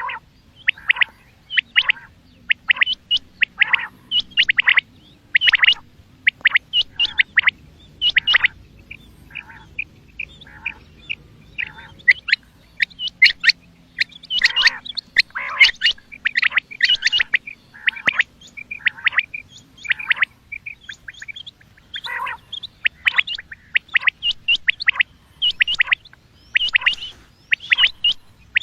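Common quail calling over and over: short, sharp notes given in quick clusters of two to four, repeated all the way through.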